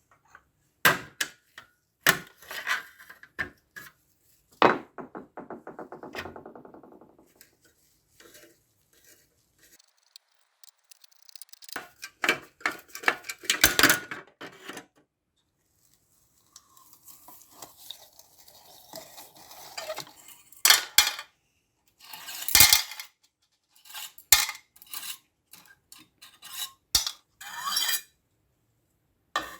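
Metal parts and hand tools clinking and knocking while a rusty old electric heater is taken apart, with a rapid rattle about five seconds in and some stretches of scraping.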